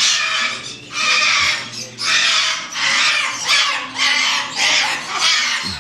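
Parrot squawking: a run of harsh, loud screeches, about one a second.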